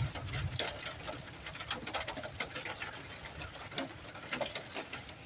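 Scattered raindrops ticking irregularly on a hard surface close by, several sharp taps a second over a faint hiss.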